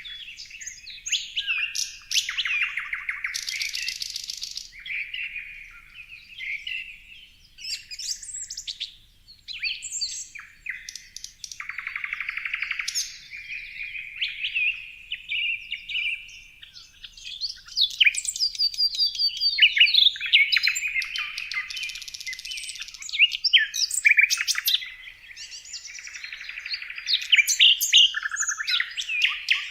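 Several songbirds chirping and calling over one another, a busy, continuous mix of varied chirps, whistled phrases and rapid buzzy trills.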